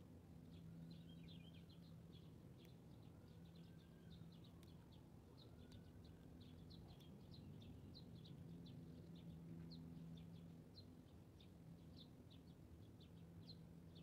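Faint chirping of small birds: short high chirps, about three a second, with a few faint rising-and-falling whistles in the first half, over a low steady hum.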